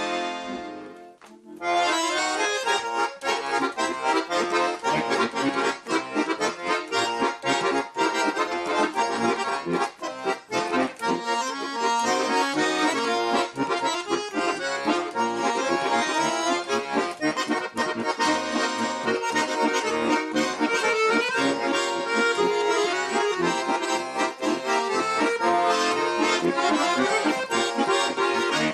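Russian garmon (button accordion) playing a fast folk instrumental solo. It opens with a short chord that fades, then a run of quick notes starts about two seconds in and carries on without a break.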